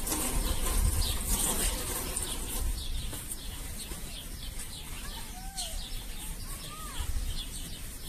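Birds chirping, with a few short rising-and-falling calls about five and seven seconds in, over a low rumble in the first couple of seconds.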